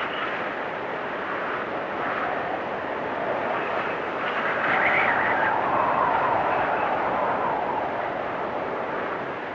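Blizzard wind gusting steadily, with a howling swell that rises and eases off about halfway through.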